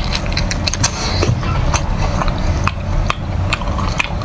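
Close-miked mouth sounds of biting into and chewing a whole cooked octopus: irregular sharp clicks and smacks, several a second.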